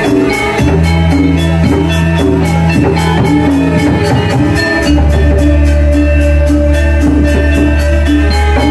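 Loud live ensemble music with a steady percussion beat, bright metallic pitched notes and long held bass notes; the bass note changes about five seconds in.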